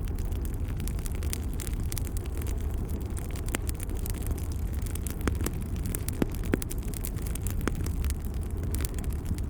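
Wood fire burning in a fireplace: a steady low rumble of flames with scattered crackles and sharper pops throughout.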